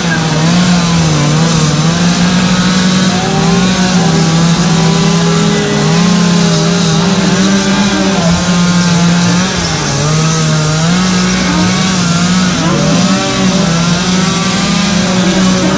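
Two-stroke chainsaws cutting and carving wood, running continuously. Their engine pitch rises and falls as they are throttled up and eased off.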